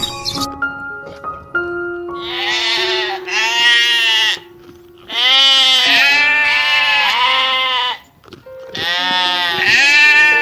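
Goat bleating repeatedly, a series of wavering calls in several runs, over background music with steady held notes.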